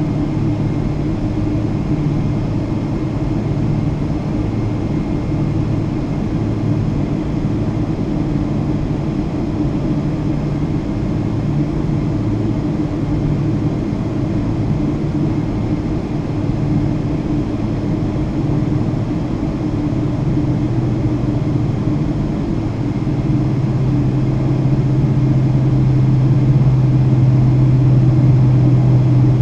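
Boeing 777-200 airliner's jet engines running with a steady rumble and low hum; after about twenty seconds the hum settles into one stronger tone and the sound grows louder.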